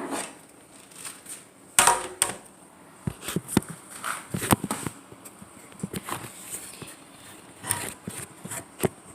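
Scattered knocks, taps and small clicks of objects being handled in a small room, loudest a pair of knocks about two seconds in.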